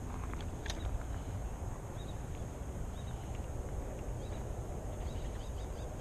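Outdoor ambience: a steady low rumble and a steady high hiss, with faint short bird chirps every second or so and a light click about a second in.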